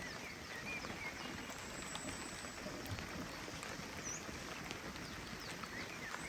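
Forest ambience: a steady hiss of rain with a few faint bird chirps.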